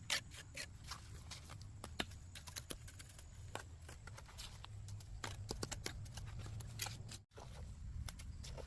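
Irregular light clicks and taps over a low steady rumble, with a brief cut to silence about seven seconds in.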